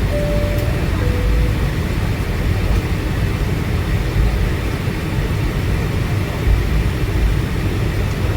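Steady low rumble of a Boeing 757-200's cabin noise, engines and air conditioning running. Near the start a two-note chime sounds, a higher note then a lower one.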